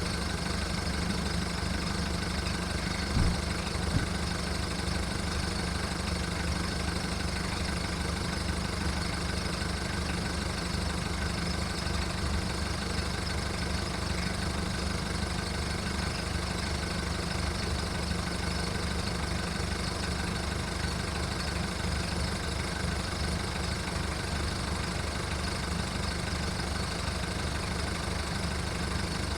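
VW Golf mk1's 1.9-litre turbodiesel idling roughly with a steady diesel clatter as it warms up from a cold start after months of storage. Two short louder knocks come about three and four seconds in.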